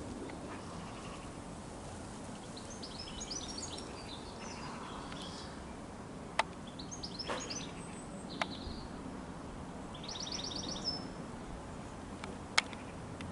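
Songbirds singing in short chirping phrases and trills over a steady low background rumble. Three sharp clicks stand out, the loudest near the end.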